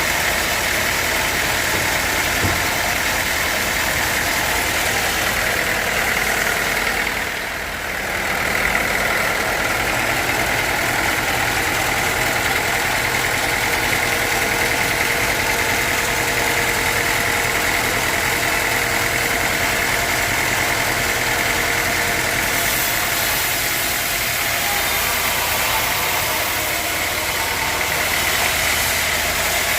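Sawmill machinery running steadily: a low engine note under a high, even whine. It dips briefly about seven seconds in, then carries on.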